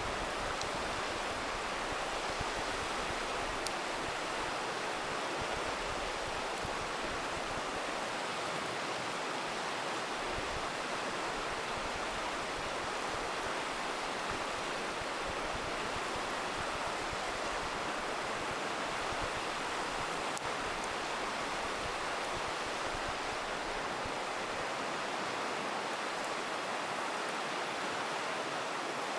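A river rushing steadily, with a few faint, sparse crackles from a campfire.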